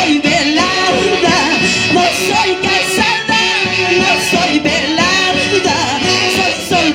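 Live music from a Peruvian Andean orchestra: an instrumental passage with a gliding melody over a steady beat.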